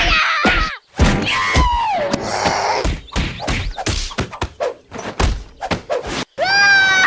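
A rapid series of thuds and knocks, mixed with short sliding tones, and a pitched tone that rises and holds near the end.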